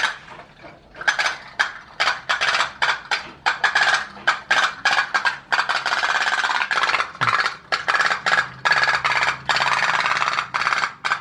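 Homemade tin pop-pop boat engines running, their boiler diaphragms giving a fast, uneven chain of sharp metallic clicks and pops in bursts.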